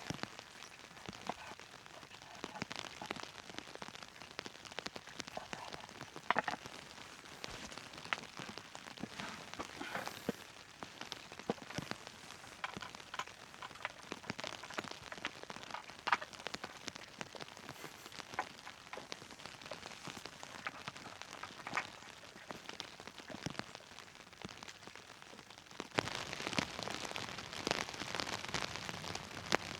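Steady rain falling on a tent, with many separate drop hits standing out from the hiss. The rain gets louder about four seconds before the end.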